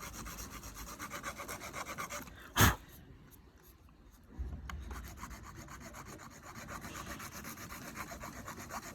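Rapid, even rasping strokes of hand abrading work, filing down the repaired heated-grip element, stopping briefly in the middle. A single sharp knock, the loudest sound, comes about two and a half seconds in.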